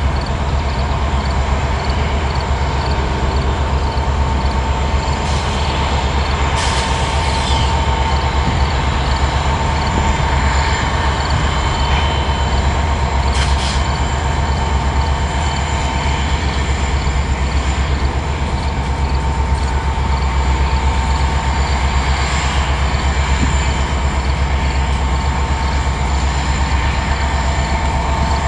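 A train rolling past: a steady heavy rumble of wheels on rail, with short high wheel squeals about seven and thirteen and a half seconds in.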